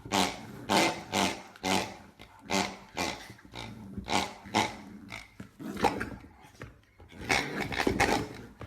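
A dog growling in short repeated bursts, about two a second.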